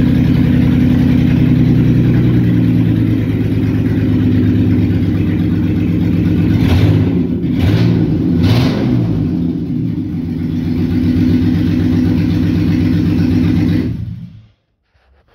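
Jeep KJ engine running with its exhaust system removed, loud and open. It idles steadily, is revved briefly three times about halfway through, then stops near the end.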